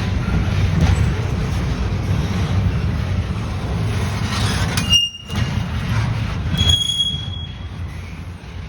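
A train rolling past with a steady low rumble, with short high-pitched wheel squeals about five seconds in and again near seven seconds; the rumble fades toward the end.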